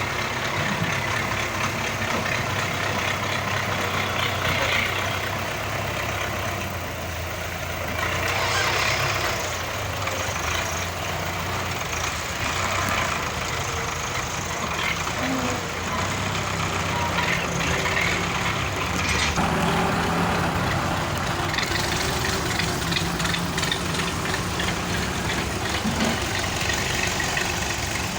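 Old Belarus tractor's diesel engine running steadily.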